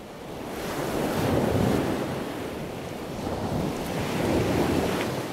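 Ocean surf washing in, a rushing noise that swells about a second and a half in and again around four and a half seconds.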